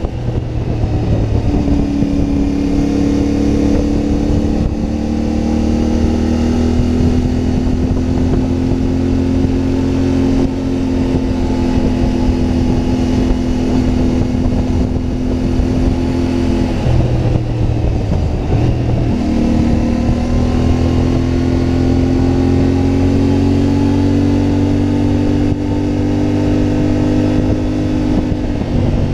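CFMoto 450MT's parallel-twin engine running under steady throttle while riding, its pitch drifting slowly up and down. About two-thirds of the way through, the note drops away for a couple of seconds, as at a gear change or a throttle roll-off, then picks up again.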